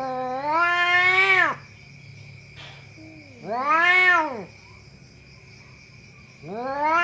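Cat yowling: long drawn-out meows that rise and then fall in pitch, three calls about three seconds apart.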